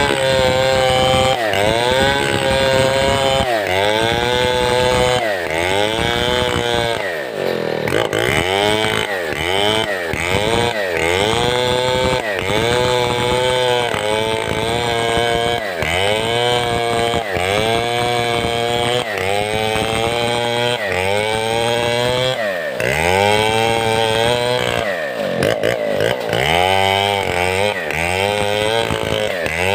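Big two-stroke chainsaw of the Stihl 070 pattern (New West 707) running hard, its engine pitch dipping and recovering over and over, roughly every one to two seconds, as the chain loads up in the cut while milling timber.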